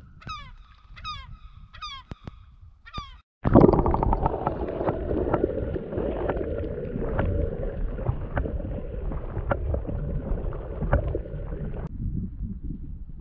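A bird gives four short honking calls in the first three seconds, each sliding down in pitch. After a sudden break, a loud steady rushing noise with scattered clicks takes over. Near the end it drops to a quieter, duller rumble.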